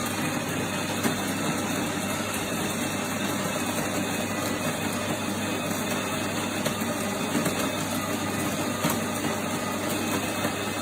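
Krups EA815070 bean-to-cup coffee machine running steadily, a buzzing mechanical noise over a constant low hum.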